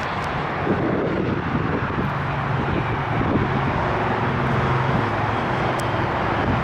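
Jet airliner noise mixed with heavy wind buffeting the microphone, a loud steady rush. A steady low hum joins about two seconds in.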